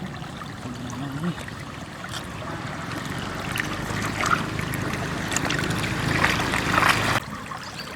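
Running floodwater with splashing that grows louder through the middle and cuts off abruptly about seven seconds in.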